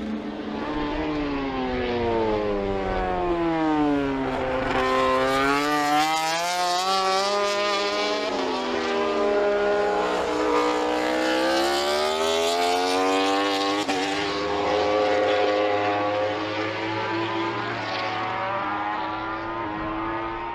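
Suzuki GSX-RR MotoGP race bike's engine running hard on track. Its pitch falls and climbs again several times as it slows and accelerates.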